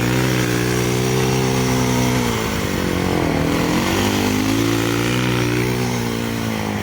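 Dirt bike engine running at a steady speed, dropping in revs about two and a half seconds in, then picking back up and holding steady again.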